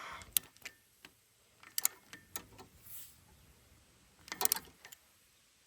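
Snap-on 3/8-inch torque wrench working the injector retaining nuts: scattered sharp metallic clicks and ticks, with a quick run of clicks about four and a half seconds in.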